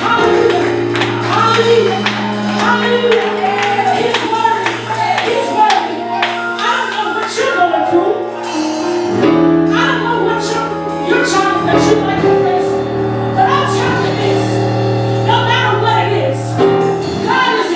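Gospel choir singing with live accompaniment: held low bass notes under the voices and a steady run of drum and percussion hits.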